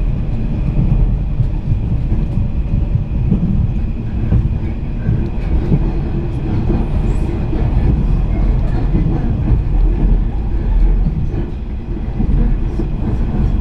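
JR East 485-series electric train running at speed, heard from inside the carriage: a steady rumble of wheels on the rails with a few faint clicks.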